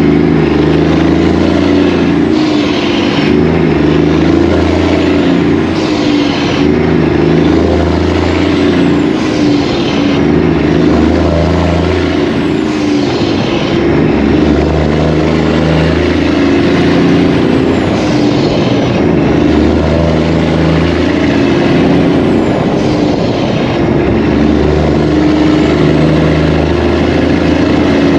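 Semi-truck running down the road, heard from inside the cab: a loud, steady engine and road drone with a swishing pattern that repeats about every two seconds.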